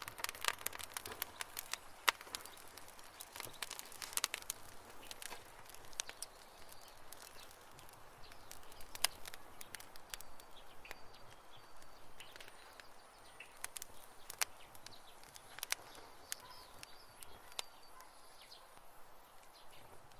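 Wood fire crackling, with sharp irregular pops and snaps, thick for the first few seconds and then sparser over a soft hiss. A few faint short chirps come in over the second half.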